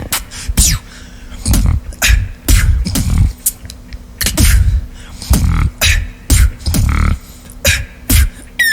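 Beatboxing: a steady groove of deep mouth kick-drum thumps alternating with sharp click and snare sounds, about two beats a second.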